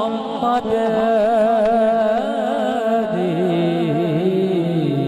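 A voice singing a Punjabi devotional naat, drawing out the word 'Muhammad' in long wavering notes with melismatic ornaments. The melody steps down to a lower note about three seconds in.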